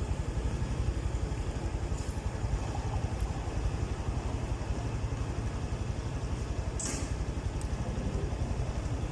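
Rusi Classic 250 motorcycle engine idling steadily with an even, fast low pulse. A short hiss comes about seven seconds in.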